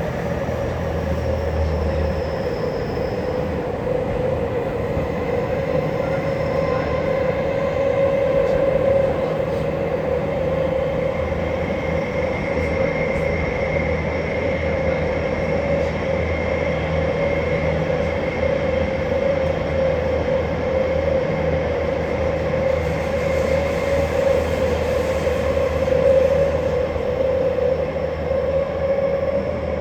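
Tokyu 5050 series electric commuter train running between stations, heard from inside the passenger car: a steady rumble of wheels on rail and running gear, with a high steady whine in the middle stretch.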